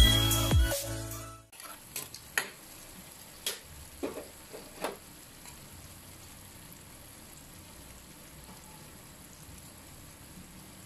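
Electronic music stops about a second and a half in, then tofu sisig (fried tofu cubes, onion and chillies in oil) sizzles faintly in a metal wok, with a few spatula scrapes and taps against the pan about two to five seconds in.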